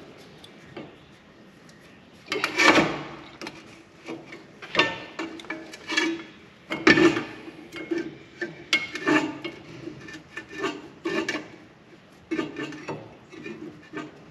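Irregular scraping and rubbing strokes, a dozen or so, starting about two seconds in, like hand work on brake parts.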